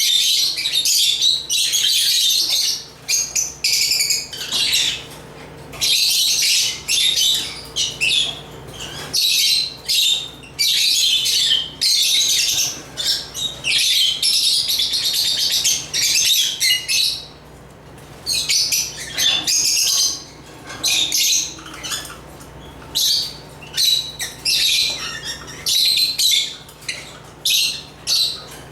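African lovebirds chirping and twittering in rapid, high-pitched bouts of a second or two, broken by brief pauses.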